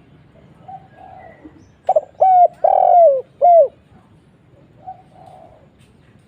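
Spotted dove (tekukur) singing one loud phrase of four low coos, the third drawn out and falling in pitch, ending on a single short 'kuk'. Softer coos are heard faintly before and after.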